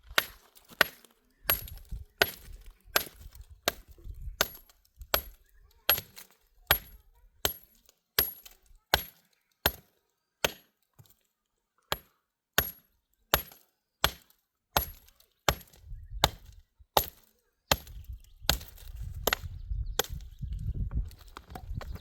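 Axe chopping wood: sharp, evenly spaced blows about one and a half a second, each with a short high ring, with a brief pause about halfway through. Near the end a low rumble comes in under the last blows.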